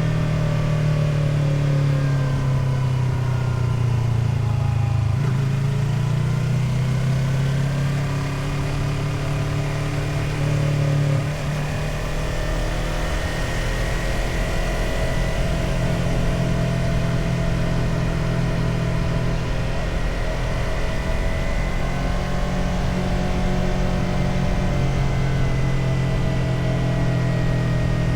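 Motorcycle engine running on the move, its pitch rising and falling as the throttle and revs change, over a steady rushing noise.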